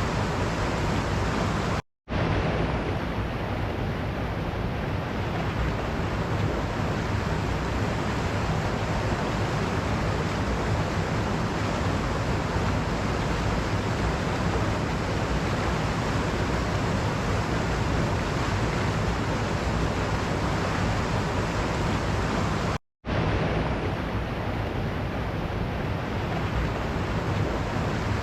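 Waterfall: a steady roar of falling water. It cuts out for an instant twice, near the start and again late on, then resumes unchanged.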